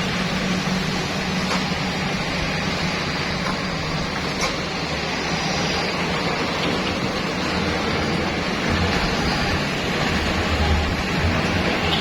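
Heavy truck engine running under load amid steady rushing road noise, its low drone growing louder over the last few seconds.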